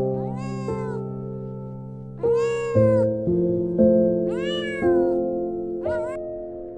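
Domestic cat meowing four times, each meow rising then falling in pitch, the last one short, over soft background music of held chords.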